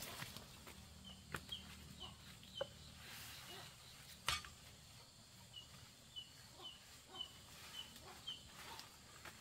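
A bird giving short, high chirps in two runs of about two notes a second. Under it, light rustles and clicks of leafy branches being pushed into a woven basket, with one sharper knock about four seconds in.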